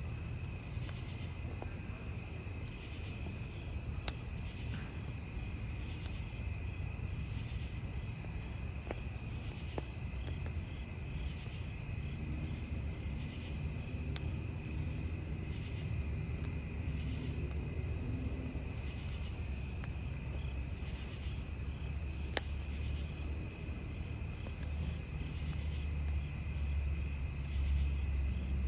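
Crickets trilling steadily, with a second, higher-pitched insect chirp repeating about once a second. Under them is the low rumble of a campfire, with a few sharp wood crackles.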